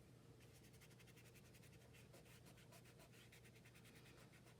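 Faint scratching of a colored pencil on paper in quick, even strokes, outlining the edges of collage pieces.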